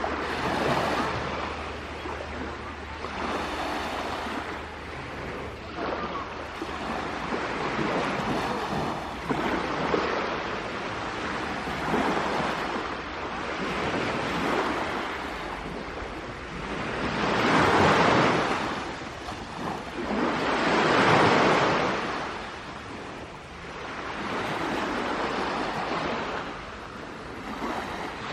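Sea waves washing onto a shore, a hiss that swells and fades every few seconds, with two louder waves past the middle.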